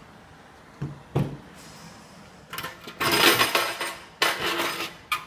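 Metal mould parts of a DPP88 blister packing machine knocking and clattering as they are handled: two sharp knocks about a second in, then a longer, louder run of metal rattling and clinking from about halfway.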